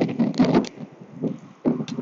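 Wind buffeting the microphone in irregular gusts while cycling, with a quieter lull in the second half.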